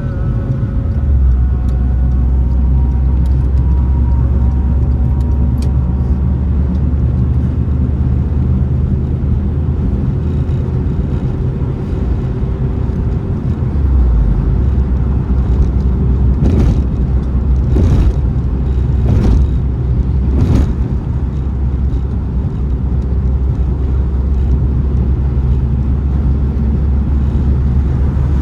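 A car driving with a steady low drone of engine and road noise. Four sharp knocks come about a second and a half apart, a little past the middle.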